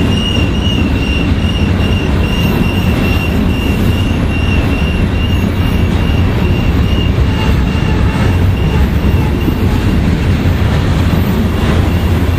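Covered hopper cars of a long freight train rolling past on curved track: a loud, steady rumble of steel wheels on rail. A high, wavering wheel squeal runs over it for the first half and then fades.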